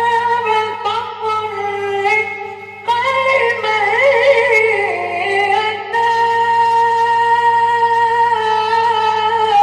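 A Qur'an reciter's voice in melodic tajweed, holding long high notes that change about three seconds in and again near six seconds, with a fast wavering ornamented run between them. A steady low electrical hum runs underneath, typical of an old recording.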